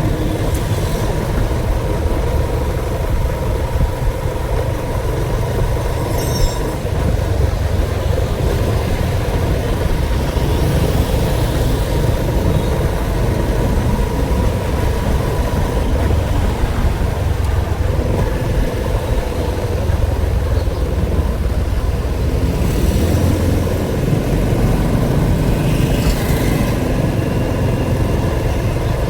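A motor vehicle engine running steadily with a continuous low rumble.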